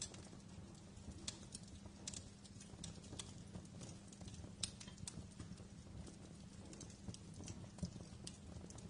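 Wood fire crackling in a fireplace: irregular sharp pops and snaps over a low, steady rumble of the burning fire.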